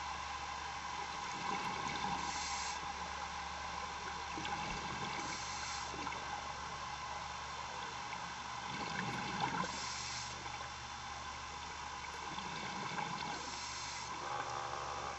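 Underwater bubbling and hiss of a working diver's breathing, with short bursts of bubbles about every three to four seconds over a steady hum.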